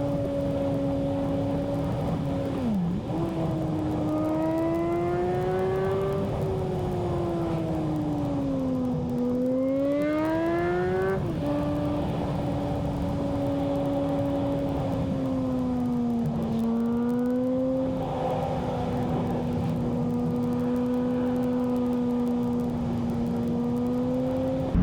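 Mazda Miata's four-cylinder engine running while the car is driven on winding roads. Its tone rises and falls with the throttle, with sudden drops in pitch about three seconds and eleven seconds in, over steady road noise.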